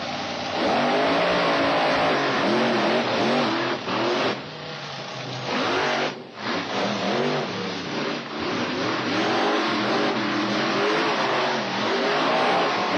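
Monster truck engine revving again and again, its pitch rising and falling with each stab of the throttle, dropping back briefly about four seconds in and again near six seconds.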